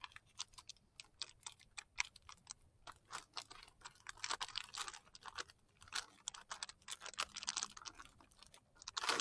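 Plastic biscuit wrapper crinkling and rustling in irregular clusters of crackles as it is torn open by hand.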